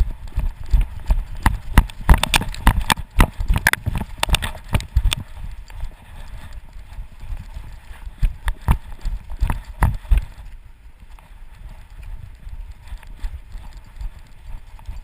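A running dog's footfalls and the jolting of a GoPro harness camera strapped to its body, picked up as a fast, uneven patter of thumps and knocks over a low rumble. The knocks thin out and grow quieter after about ten seconds, as the running slows.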